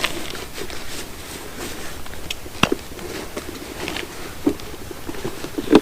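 Scattered light clicks and knocks over soft rustling: camping gear being handled and set down while a coffee break is laid out.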